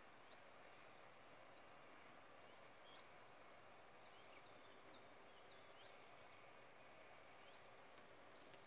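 Faint birdsong: short high chirps and quick slurred notes scattered through, over a near-silent hiss, with a couple of small clicks near the end.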